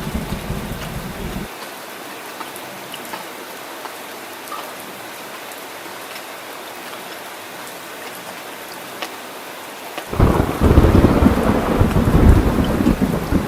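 Heavy rain hissing steadily, with scattered drips. A rumble of thunder ends about a second and a half in, and a loud thunderclap breaks about ten seconds in and rumbles on.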